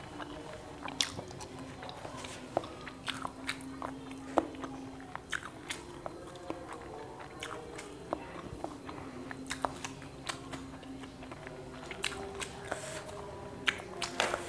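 Close-miked chewing of a mouthful of fried egg: a run of irregular small wet clicks and smacks, heard through a clip-on lapel mic.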